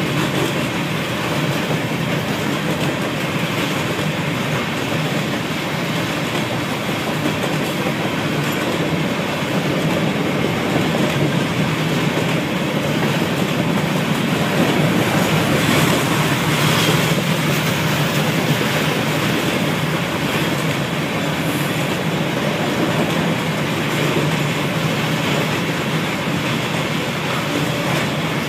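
Loaded Norfolk Southern covered hopper cars rolling past: a steady rumble and clatter of steel wheels on rail.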